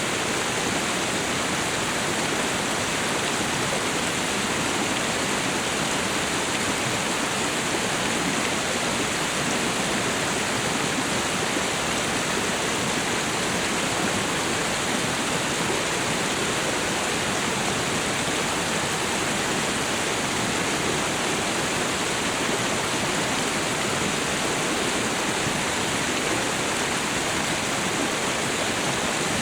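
Waterfall and river water rushing in a steady, unbroken hiss.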